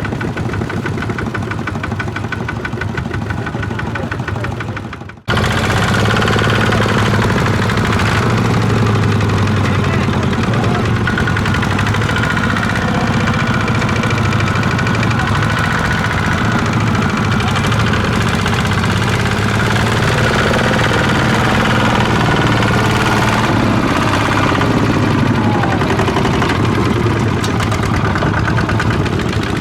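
Farm machine's engine running steadily. About five seconds in it breaks off for an instant and comes back louder, then holds a steady low drone.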